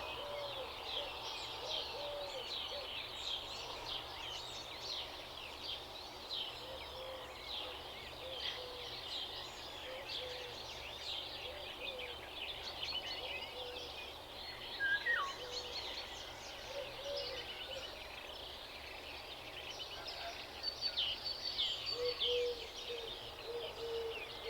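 A dense chorus of many small birds chirping and twittering, with short low calls repeating underneath. About fifteen seconds in, one louder falling call stands out, and near the end a run of low notes repeats quickly.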